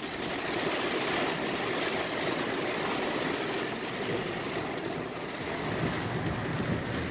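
Rain coming down hard on a car, heard from inside the cabin as a steady hiss, with the car's engine running underneath.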